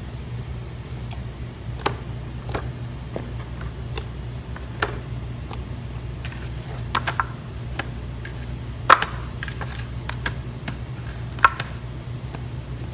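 Scattered light knocks and taps at irregular times, the loudest about nine seconds in and another near eleven and a half seconds, over a steady low hum.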